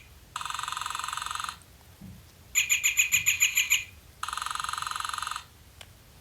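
Audubon plush northern flicker's built-in sound chip playing recorded flicker calls through its small speaker: a buzzy call about a second long, then a rapid series of sharp notes at about nine a second, then the buzzy call again.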